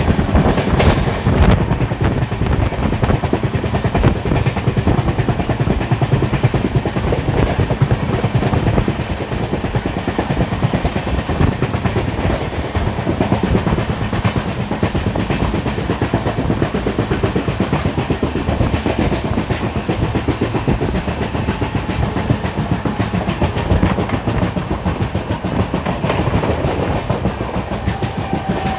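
A moving passenger train running steadily, its wheels rumbling and clattering over the rails, heard from on board.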